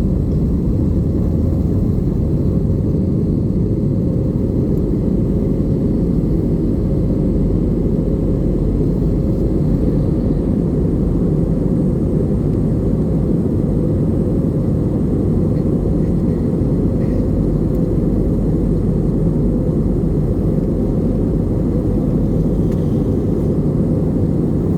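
Steady low drone of an Airbus A320 airliner heard from inside the cabin, engine and airflow noise with a faint steady hum riding on it.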